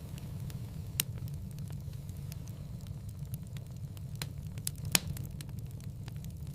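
Firewood burning in a fireplace, crackling: a steady low rumble of flames with scattered small crackles and two sharper pops, about a second in and again near five seconds.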